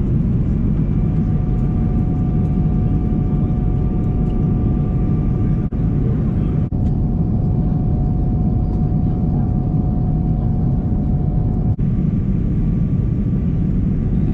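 Steady drone of a jet airliner's cabin noise in flight: a dense low rumble with a faint steady whine over it, briefly broken three times.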